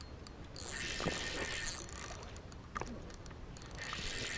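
Fishing reel being cranked in spurts while fighting a hooked steelhead, a mechanical whirring that starts and stops.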